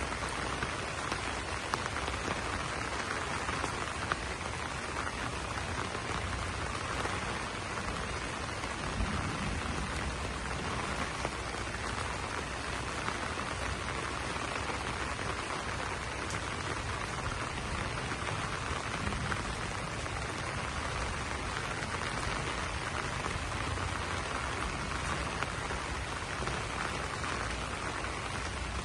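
Steady rain falling on broad banana leaves: a dense, even hiss with a few sharper drop hits in the first seconds.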